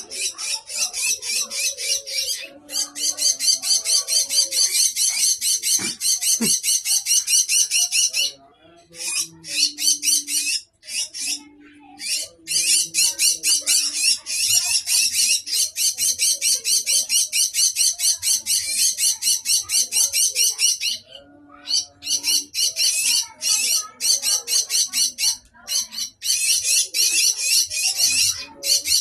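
A bird chattering loudly in long bouts of fast, rapid-fire high calls, with short breaks between the bouts.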